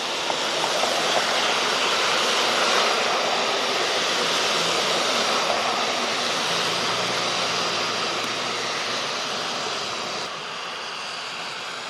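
Steady traffic noise of cars driving on a snowy street, a constant rushing hiss with a faint low engine hum. It drops to a quieter level about ten seconds in.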